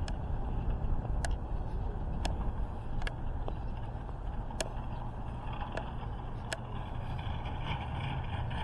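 Steady low vehicle rumble with sharp clicks about once a second at uneven spacing.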